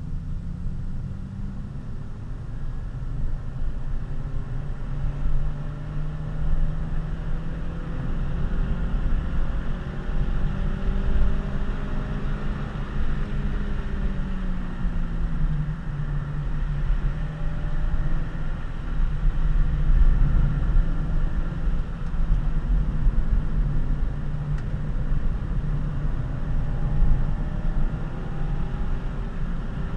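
Honda Civic Si's 2.0-litre four-cylinder engine heard from inside the cabin while driving, its note climbing slowly, dropping about halfway through, then holding fairly steady. A heavy low tyre and road rumble runs underneath.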